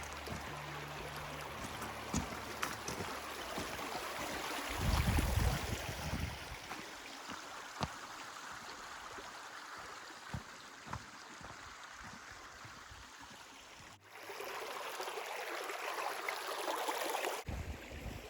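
Steady rushing of running water from a stream, with scattered light knocks over it; the sound changes abruptly about 14 seconds in.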